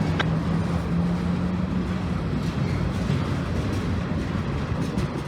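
Freight train's diesel locomotives rumbling steadily, with a low engine drone that eases off after about two seconds and a few faint clicks.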